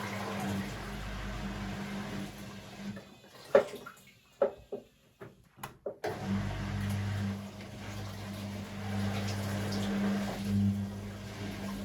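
Beko WML 71433 NP washing machine drum motor running with a steady hum, stopping for about three seconds, then starting again about six seconds in: the drum's turn-and-pause wash rhythm. During the pause there are several sharp knocks and water sounds from the drum.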